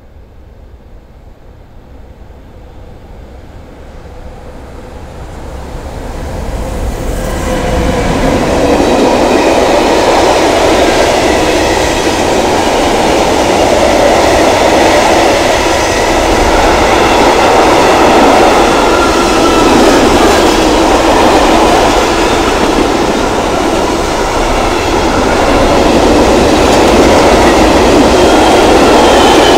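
Freight train approaching, growing louder over the first eight seconds or so, then its wagons rolling past close by in a steady loud rumble of wheels on rails.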